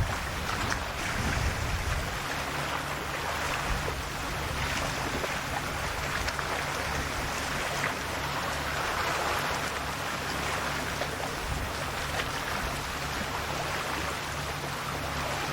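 Small, calm sea waves washing against the shore in a continuous wash that swells and eases every few seconds, with a low steady hum underneath.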